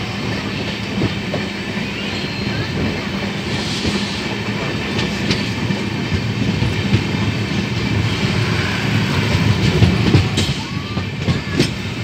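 Running noise of an LHB passenger coach heard from on board as the train rolls along: a steady rumble of wheels on rail with a few sharp clicks over rail joints, swelling slightly near the end.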